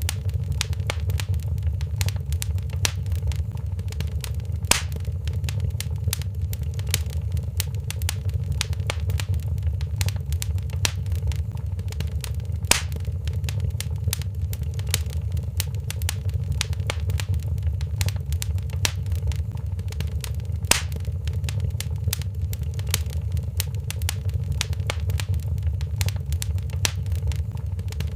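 Wood fire crackling in a fireplace: a dense run of small pops and ticks, with three louder snaps about eight seconds apart, over a steady low rumble.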